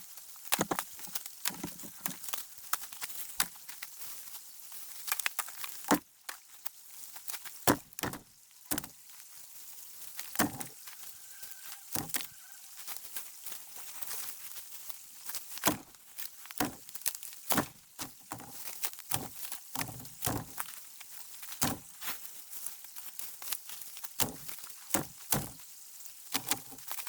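Dead wood being broken up and gathered for a campfire: irregular sharp cracks and knocks, roughly one or two a second, with steps in between.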